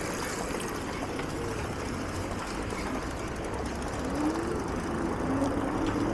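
Steady rumble and noise of riding an electric fat bike through town traffic, with a faint whine that rises about four seconds in and then holds steady.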